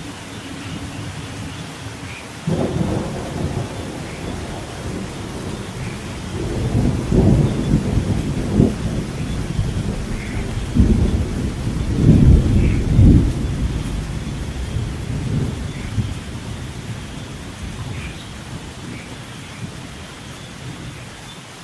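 Thunder rolling over steady rain: the rumble breaks in sharply about two and a half seconds in, swells in several waves through the middle, then fades slowly under the rain.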